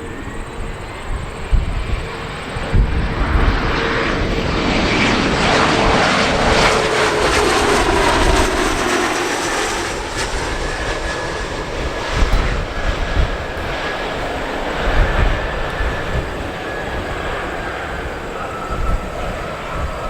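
A fixed-wing airplane going past, its engine noise swelling to a peak about halfway through, with the engine tone dropping in pitch as it passes. Gusty wind buffets the microphone throughout.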